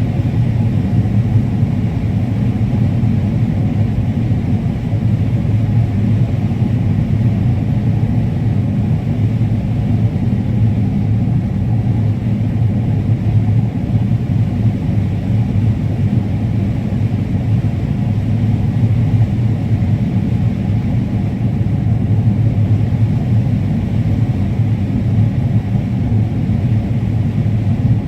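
Combine harvester running steadily while harvesting corn: a constant low drone of engine and threshing machinery with no change in pitch or load.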